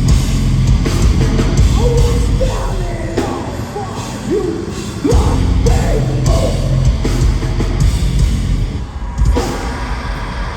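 Loud live heavy metal music: a band playing with heavy low-end guitars and drums, with the low end dropping out briefly a few times.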